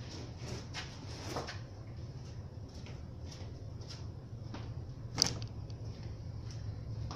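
Spray-paint work: a string of short hisses and clicks from aerosol cans and their handling, with one sharp click about five seconds in, over a steady low hum.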